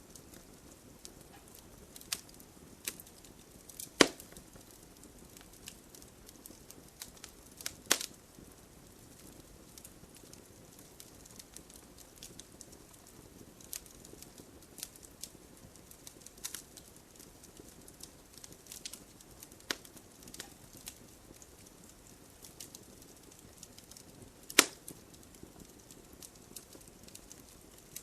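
Wood fire crackling in a fireplace: scattered small sharp crackles over a faint steady hiss, with three loud log pops, about four seconds in, about eight seconds in, and near the end.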